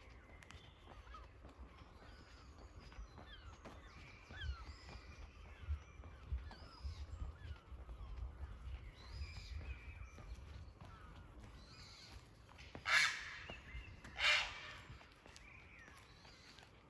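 Small songbirds chirping and twittering with short falling notes. Near the end, a crow gives two loud, hoarse caws about a second apart.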